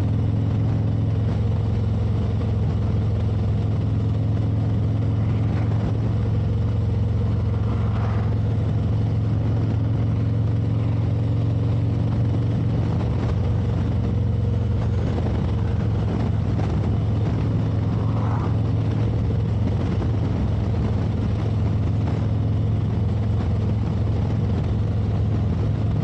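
Touring motorcycle engine running steadily at cruising speed: a constant low drone under wind and road noise.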